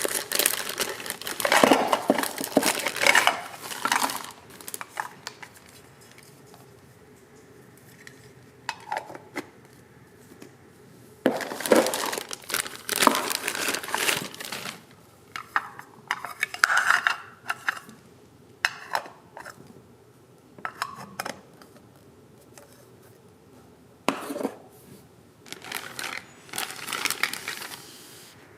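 Toy kitchen pieces (pots, utensils and play food) clattering and clicking as they are handled, in several short bursts of knocks with quieter pauses between.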